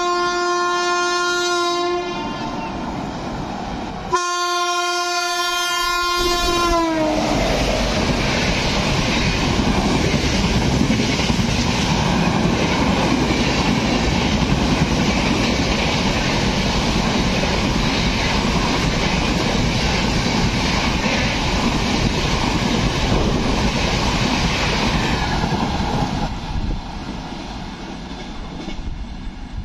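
WAP7 electric locomotive sounding two horn blasts, the second dropping in pitch as the locomotive rushes past. Then comes the loud, steady rumble and clatter of the express's LHB coaches passing at full speed, fading near the end.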